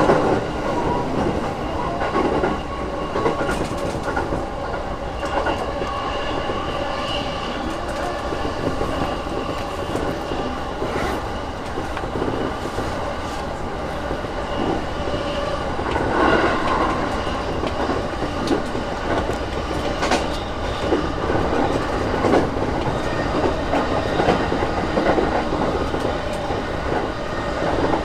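E233-6000 series electric commuter train running between stations, heard inside the car: a steady rumble of wheels rolling on rail, with a click now and then from the wheels over rail joints.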